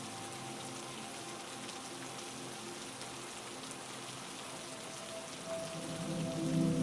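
Steady heavy rain falling, with a low drone of several held tones underneath that swells louder near the end.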